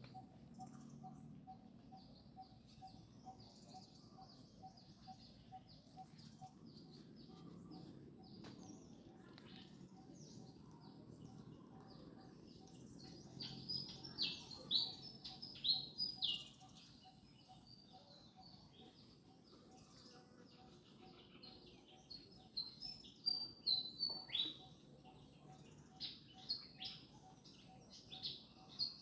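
High-pitched animal chirping: many short squeaky chirps and quick falling calls, busiest in two louder bouts around the middle and near the end. A faint pulsing tone runs steadily beneath them.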